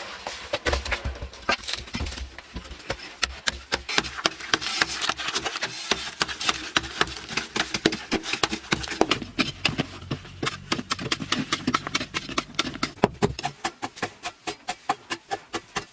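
Rapid, irregular knocking and tapping of hard strikes. About two-thirds of the way in it settles into an even beat of roughly three knocks a second.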